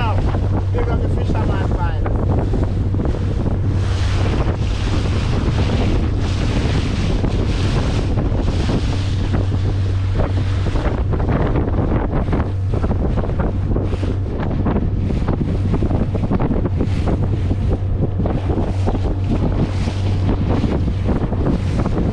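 Boat engine running steadily under way, with heavy wind buffeting the microphone and water rushing past the hull.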